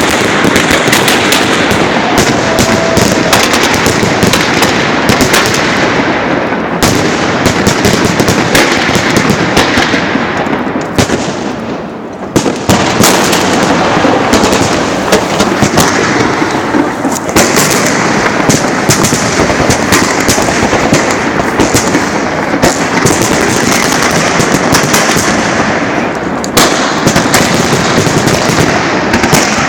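Salute fireworks launchers firing a dense, continuous barrage of rapid loud bangs. About twelve seconds in, the firing eases briefly and then a sudden, louder blast follows: a charge detonating prematurely.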